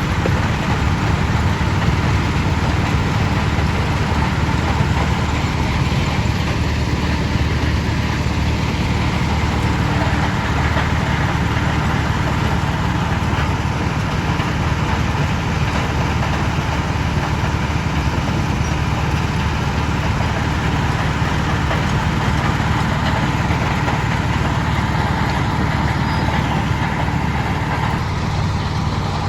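Heavy quarry crushing machinery running steadily: a continuous low drone with a constant hum and no separate knocks standing out.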